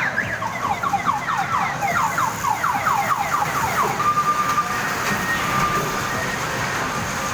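Electronic warbling alarm-like sound, quick rising chirps about four a second, giving way after about four and a half seconds to steady held tones that sound on and off.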